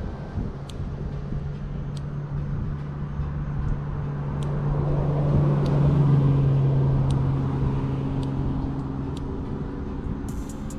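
A motor vehicle going past: a steady engine hum that grows to its loudest about six seconds in and then fades. Faint sharp clicks come about once a second, bunching together near the end.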